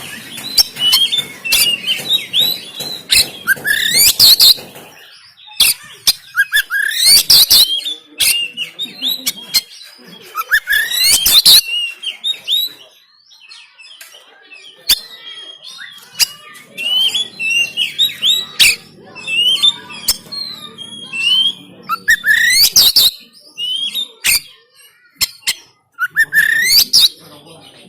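Oriental magpie-robin (kacer) singing loud bursts of varied whistled notes, a new phrase every three to four seconds, several of them sweeping upward in pitch.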